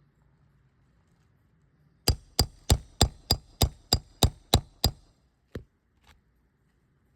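Roofing hammer striking metal in a quick run of about ten blows, roughly three a second, each with a short metallic ring, then one more blow and a faint tap.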